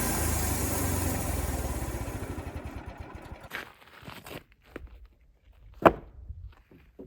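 The Wood-Mizer LX55 portable sawmill's 14 hp engine is shut off and runs down, its steady running slowing into a pulse that dies out over about three seconds. A few scattered clunks follow, then one sharp knock near the end.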